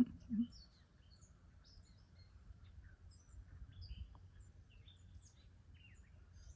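Songbirds chirping and singing in short, scattered high calls over a steady low background rumble. Two short, low sounds right at the start are the loudest thing.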